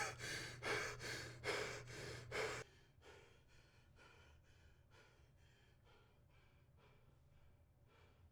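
A person panting hard in quick gasping breaths, about two a second. Loud for the first two and a half seconds, then much fainter but still going.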